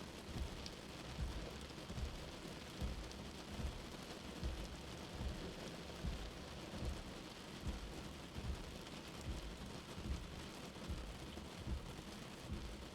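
Steady rain heard from inside, with a soft, low heartbeat thumping evenly a little faster than once a second.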